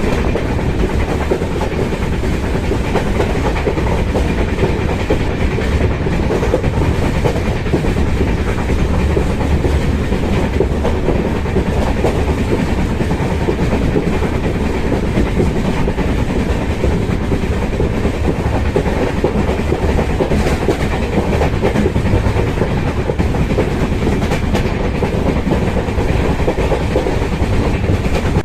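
Steady running noise of an express train in motion: the LHB coach's wheels rumbling on the track with a light clickety-clack over rail joints.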